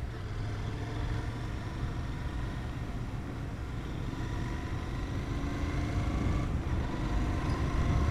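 Royal Enfield Continental GT 650's parallel-twin engine running under way, with wind rumble on the helmet microphone, getting louder near the end as the bike picks up speed.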